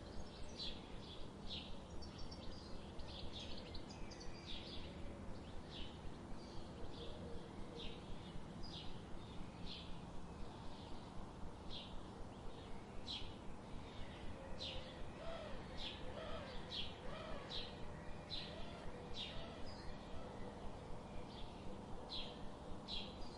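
Birds chirping: short, high calls repeating about once or twice a second over a faint steady background hiss, with a few softer, lower warbling notes about two-thirds of the way through.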